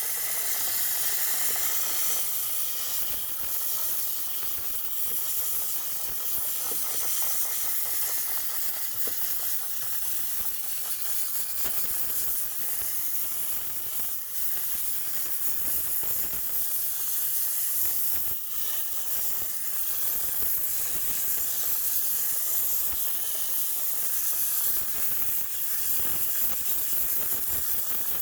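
Steam cleaner jetting steam onto a heat pump dryer's condenser coil: a steady high hiss, with brief dips about fourteen and eighteen seconds in.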